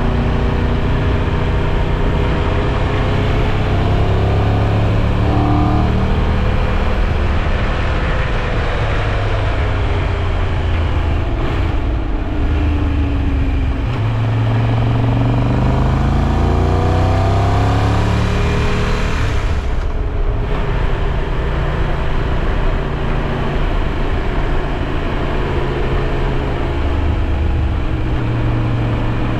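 Triumph Tiger 1200 Rally Pro's three-cylinder engine pulling steadily under way, with a constant rush of wind noise. Its pitch falls and then climbs again as the bike slows and speeds up, and it eases off briefly about twenty seconds in.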